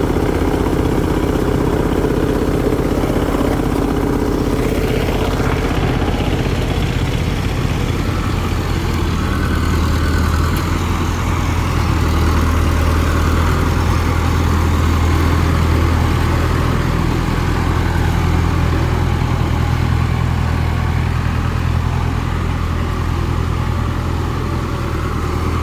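Tractor diesel engine idling steadily, running on its own after its fuel system has been bled and the fuel filter cleaned.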